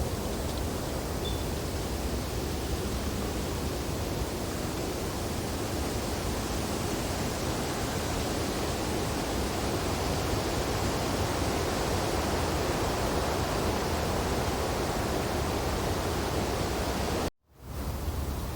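Steady wind blowing through tree branches in a snowfall, an even rushing noise. Near the end it cuts out abruptly for a moment and swells back in.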